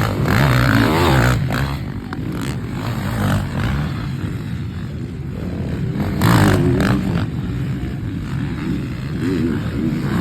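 Motocross motorcycles passing on the track, their engines revving up and down. The loudest passes come about a second in and again around six seconds in.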